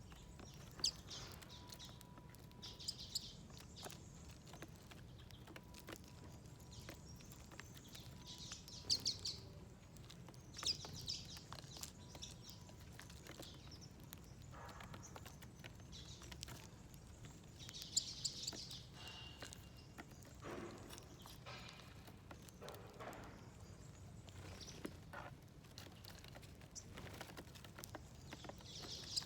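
Small wild garden birds chirping in short, scattered bursts every few seconds, with light taps and clicks between them.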